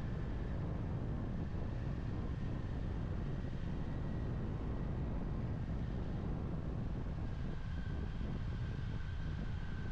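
Kawasaki Ninja 400 parallel-twin motorcycle engine running steadily at cruise, mixed with wind rush on the microphone. A faint whine dips slightly in pitch about six seconds in.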